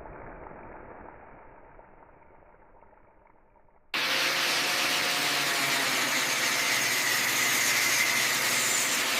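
A low rumble fades out. About four seconds in, the steady, loud hiss-and-whine of a workshop power tool cuts in abruptly and holds, with faint high tones running through it.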